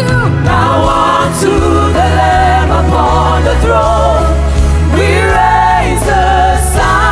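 Live worship music: a lead singer and choir singing over a full band with bass, keys and cymbals.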